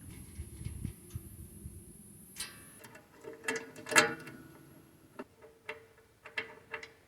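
Small metal latch hardware and screws clicking and clinking as they are handled and fitted, a string of irregular sharp clicks, some with a brief metallic ring.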